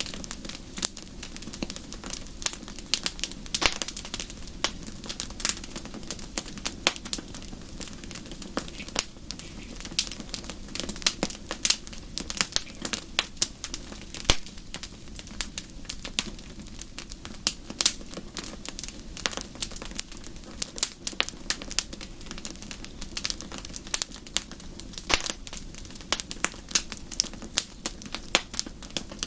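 Wood fire in a fireplace crackling, with many sharp, irregular pops and snaps over a low steady rumble of burning.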